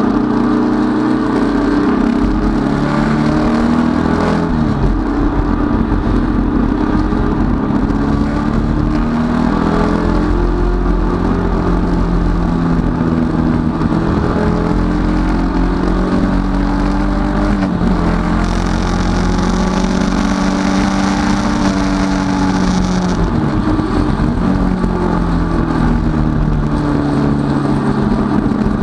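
Datsun 510 race car's four-cylinder engine heard from inside its cabin, running hard under racing load, its pitch climbing and dropping several times with gear changes and lifts for corners.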